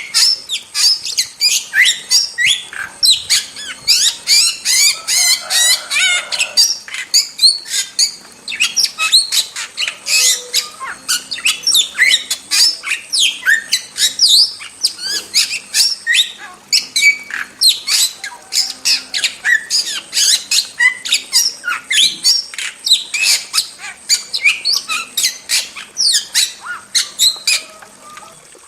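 Starling calling without pause: a rapid run of sharp squawks and whistled chirps, several a second, with a buzzy rattling trill about four to six seconds in.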